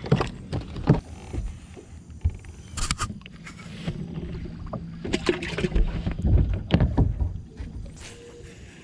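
Knocks and thumps on a bass boat's deck, with a steady low hum from about a second and a half in until about six seconds in.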